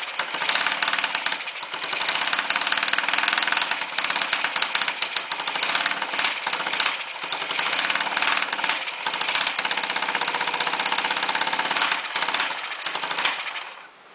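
Honda S90's single-cylinder four-stroke engine running near idle, loud through the front section of the muffler with no baffle fitted. It will not rev out from idle because an aftermarket Honda Cub carburettor is fitted and the fuel level is low. The sound cuts off near the end.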